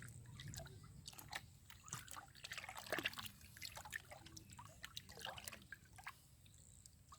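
Small irregular splashes and drips of water, with a louder splash about three seconds in.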